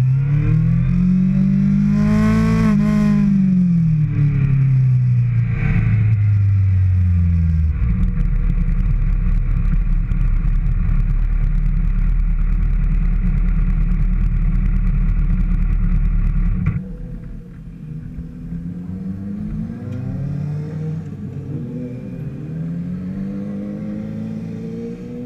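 A 2013 Kawasaki ZX-6R's inline-four sport-bike engine revving hard, its pitch rising and falling through the gears. It is followed by several seconds of steady loud rushing noise that cuts off sharply, then quieter rises and falls in engine pitch.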